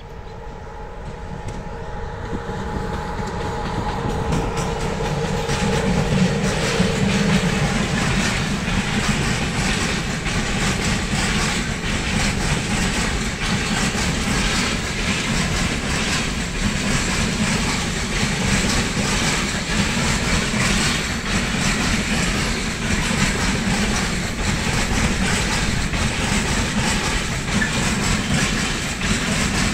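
Freight train passing close by. It grows louder over the first several seconds as it approaches, then runs as a steady rumble with the wagon wheels clattering over the rail joints.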